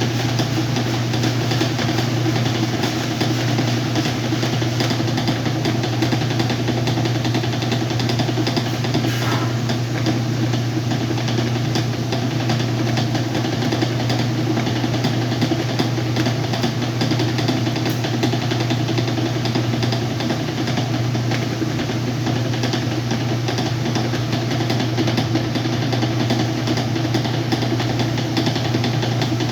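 Whirlpool washing machine running a wash cycle with a load of blankets: a steady motor hum with constant mechanical noise over it.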